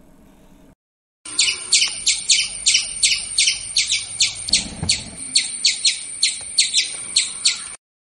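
Squirrel squeaking: a fast run of short, high chirps, about three a second, each dropping sharply in pitch. The run starts about a second in and lasts some six seconds.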